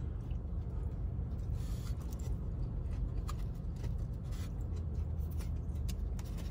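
Chewing a mouthful of fried chicken tender dipped in gravy: faint crackles and mouth clicks over a steady low rumble inside a car cabin.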